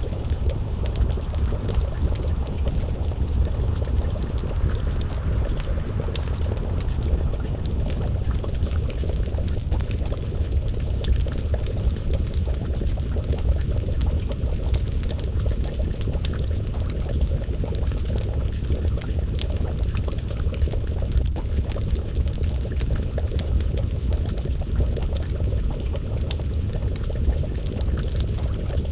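Pot of stew bubbling at a simmer over a wood fire, with many small crackles from the burning logs over a steady low rumble.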